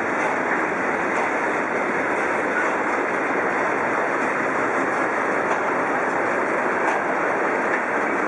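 Freight train hauled by an M62M diesel locomotive running past, a steady, unbroken rolling noise of the train on the rails.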